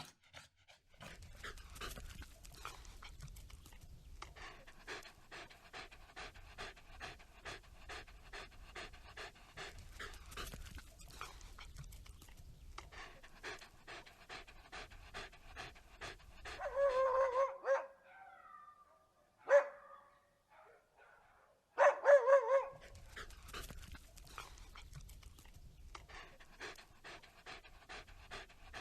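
Dog panting quickly and evenly, in rapid breaths. About two-thirds of the way through, a few short, louder, higher-pitched dog cries break in, the loudest near the middle and just after.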